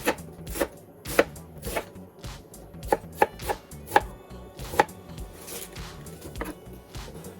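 Kitchen knife chopping cabbage on a cutting board: about ten uneven strokes, the sharpest ones in the middle.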